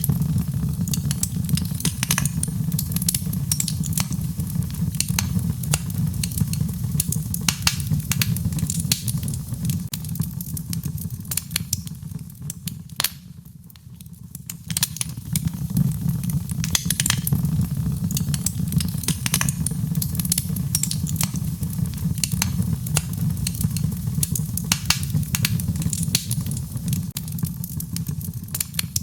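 Wood fire in a fireplace crackling, with frequent sharp pops over a steady low rumble; the sound dips briefly about thirteen seconds in.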